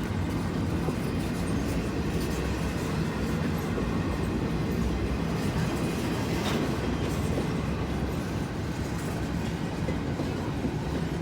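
Norfolk Southern freight train's cars rolling past on the rails, a steady rumble.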